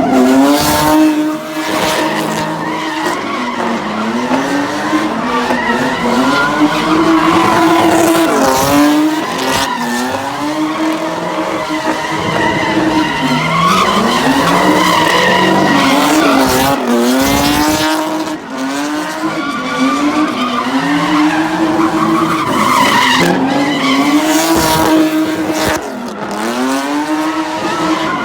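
A car engine revving up and down over and over, with tyres screeching and skidding on the pavement.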